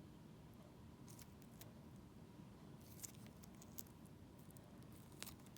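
Faint, scattered sticky clicks and crackles from handling the gluey, slime-like filling of a cut-open stretch toy, a few in a cluster about three seconds in and one more near the end.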